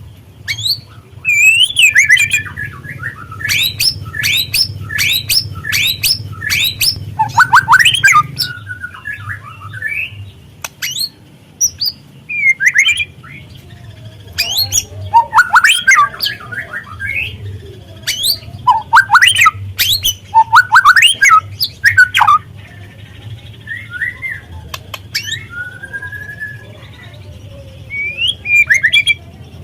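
White-rumped shama (murai batu) calling in harsh rattling bursts: quick runs of sharp down-sweeping notes, broken by a few short whistled phrases. A low steady hum runs underneath.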